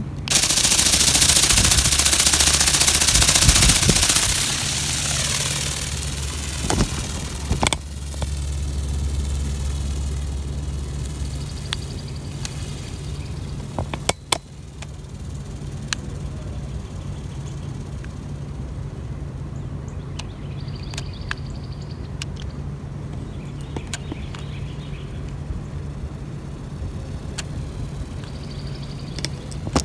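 Remote-control flapping-wing toy bird powered up and released: its small motor and beating wings whir loudly for the first few seconds, then fade as it flies away. A steady low hum with scattered clicks stays in the background.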